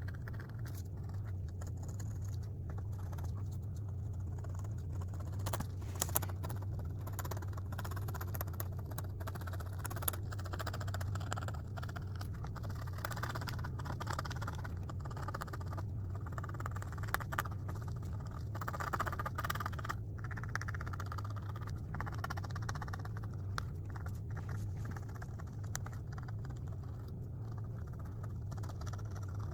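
Irregular scratchy scraping of a drawing tool working across a drawing board, with occasional small clicks, over a steady low hum.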